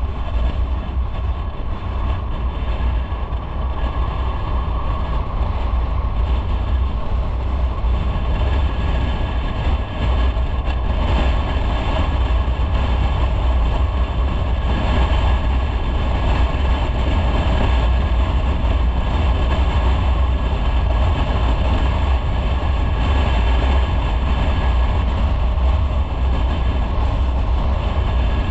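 Motorcycle on the move: the engine running steadily under heavy wind rumble on the microphone.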